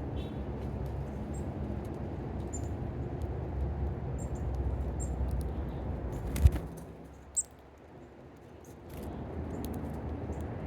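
Short, faint, high chirps of small birds at a feeder over a steady low rumble. A sharp knock comes about six and a half seconds in, and the rumble drops away for a couple of seconds after it.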